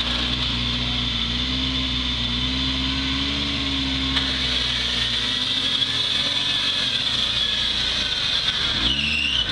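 Suzuki Samurai off-road 4x4 engine running under load as it crawls up a steep dirt obstacle, with a steady high whine over it. Near the end the revs briefly rise and fall.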